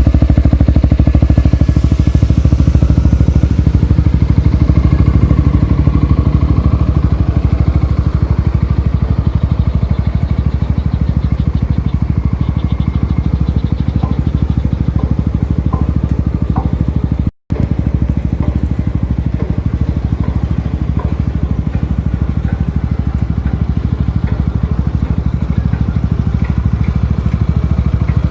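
Yamaha XMAX 250 scooter's single-cylinder four-stroke engine running steadily at idle through an aftermarket Burnout racing exhaust, a loud, deep, even exhaust beat. It cuts out for an instant about two-thirds of the way through.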